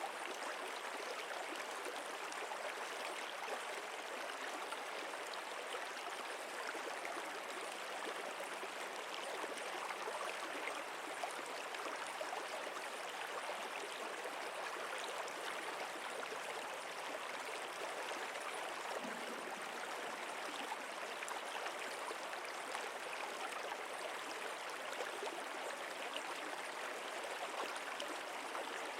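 Flowing stream water running steadily, an even rushing with fine gurgling crackle.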